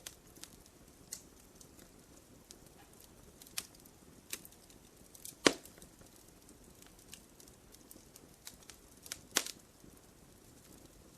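Wood fire crackling in a fireplace: scattered sharp pops and snaps over a faint hiss, with two louder pops about five and a half and nine and a half seconds in.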